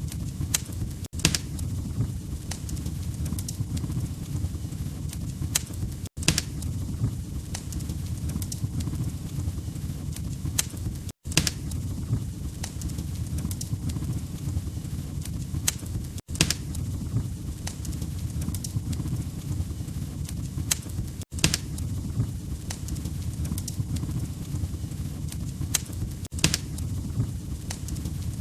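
AI-generated log fire crackling with scattered sharp pops over a low steady rumble. The sound is a short loop that repeats about every five seconds, each seam marked by a brief dropout.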